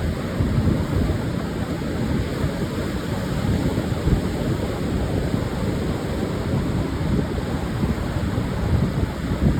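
Pacific surf washing on a wide sandy beach, heard as a steady dense wash, with wind buffeting the microphone in low rumbling gusts.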